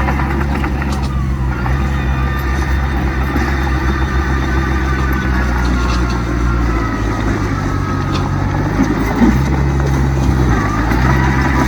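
Heavy diesel engines of earthmoving machinery running steadily, with the engine note shifting up and down near the end.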